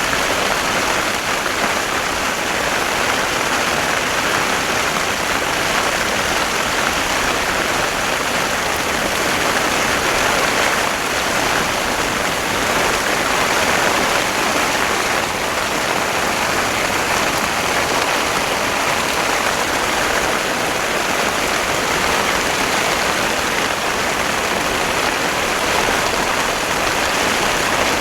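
Torrential rain pouring down in a steady, dense hiss, even in strength throughout.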